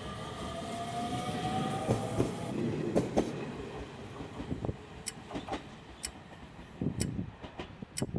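Nishitetsu electric commuter train running past along a station platform, its wheels clattering on the rails, then fading as it moves off. In the second half, a sharp tick comes about once a second from a countdown timer.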